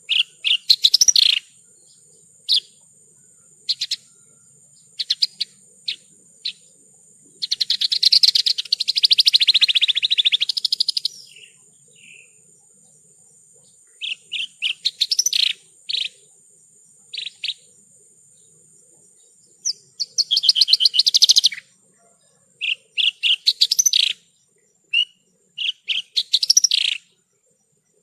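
Javan bush lark (branjangan) singing in short bursts of quick chirps and trills, with two longer, dense rattling phrases, one about 8 seconds in and one about 20 seconds in. A faint steady high-pitched tone runs underneath and stops about 20 seconds in.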